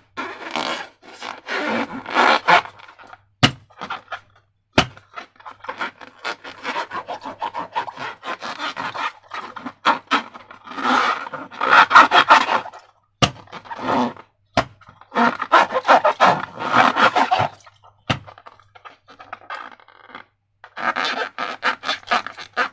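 Slime-making materials being handled: repeated spells of crackly scraping and squishing, broken by a few sharp clicks.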